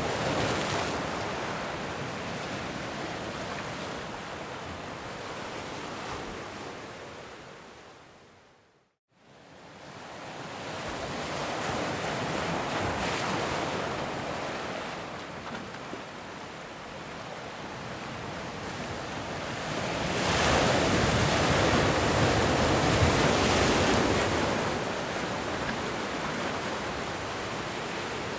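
Ocean surf: a steady wash of breaking waves that fades out to silence about nine seconds in, fades back in, and swells louder as a bigger wave breaks about two-thirds of the way through.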